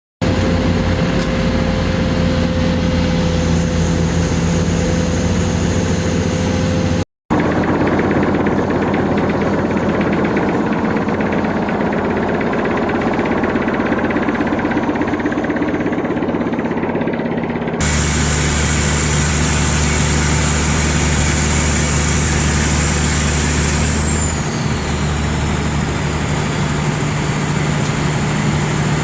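Hydraulic vibratory pile-driving hammer and its engine running steadily while driving steel caisson pipe piles into soil: a loud, continuous mechanical drone with steady low hums. The sound changes abruptly about 7 s and 18 s in, with a brief dropout at the first change. A high whine falls away about 24 s in.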